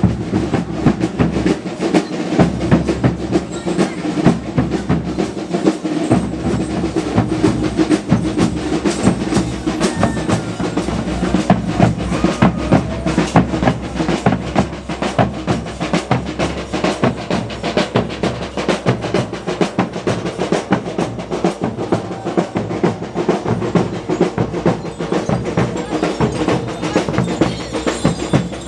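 A percussion ensemble drumming fast and densely without pause.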